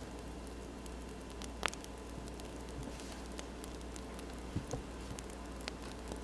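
Wood fire crackling: a steady soft hiss broken by a few sharp pops, the loudest about one and a half seconds in and several more near the end.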